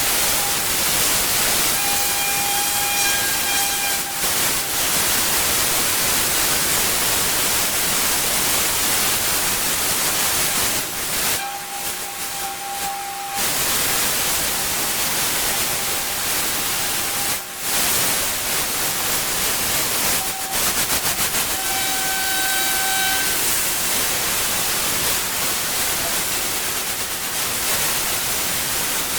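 Pressure washer jet spraying, a loud steady hiss that eases off briefly a couple of times, with a thin whistling tone coming and going.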